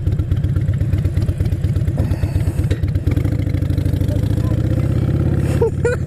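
Motorcycle engine with loud wrapped exhaust pipes running under way, heard close from the rider's helmet. The firing pulses are uneven at first, then smooth out, and the note climbs gradually over the last few seconds.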